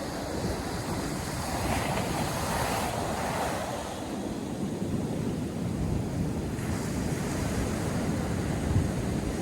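Ocean surf breaking and washing onto a beach, with wind buffeting the microphone. A wave's wash swells about two seconds in and fades.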